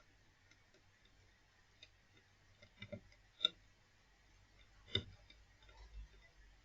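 Faint, scattered clicks and light knocks over a low hum. The sharpest comes about three and a half seconds in and another about five seconds in.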